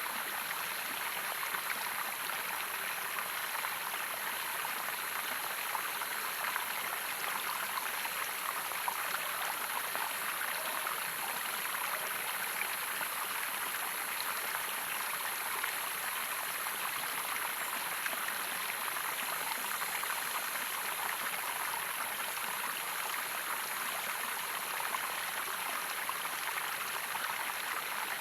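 Running water flowing steadily, an even rushing with fine splashing and no breaks.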